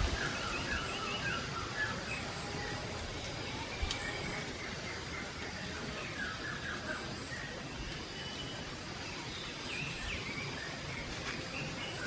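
Songbirds calling in short, quickly repeated chirping phrases, in three spells, over a steady outdoor background hiss, with one soft knock about four seconds in.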